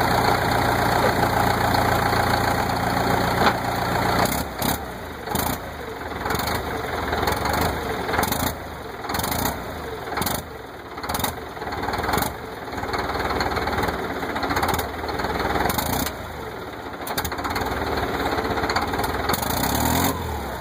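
Caterpillar 955 loader's diesel engine running. It runs steadily for about the first four seconds, then unevenly for the rest, its level surging and dipping irregularly.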